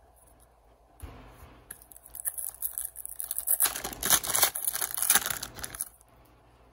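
A 2005-06 Upper Deck Rookie Update card pack wrapper being torn open and crinkled. The crackling starts about a second in, is loudest in the middle, and stops shortly before the end.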